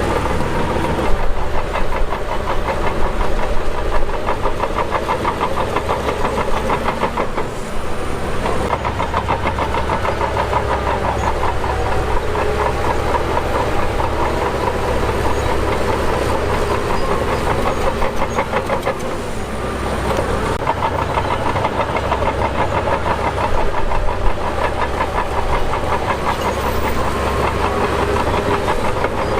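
Shantui DH17 crawler bulldozer at work: its diesel engine runs steadily under load with a rapid clatter from the tracks. The sound eases briefly twice, about a third and two-thirds of the way through.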